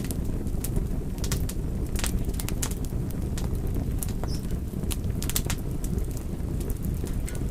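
A fire crackling, with many sharp, irregular pops and snaps over a steady low rumble.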